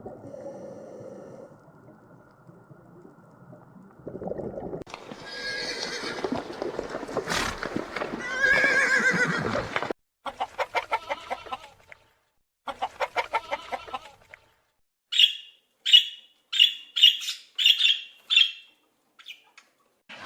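A string of different animal calls cut one after another: a loud, wavering horse whinny in the first half, then two runs of quick, even pulsed calls, then about seven short, sharp high calls.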